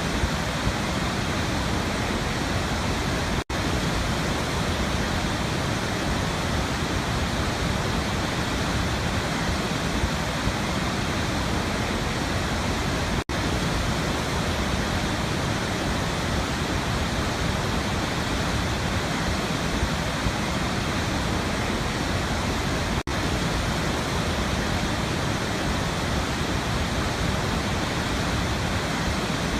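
Waterfall rushing in a steady, even roar of falling water, broken by three momentary dropouts about ten seconds apart.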